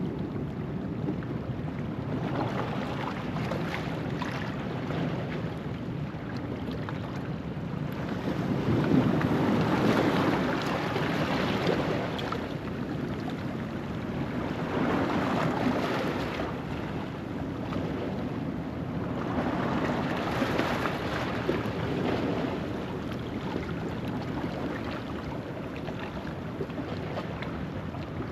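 Ocean waves washing over a rocky shoreline at low tide, rising and falling in slow surges every few seconds, the biggest about a third of the way in. Wind runs underneath.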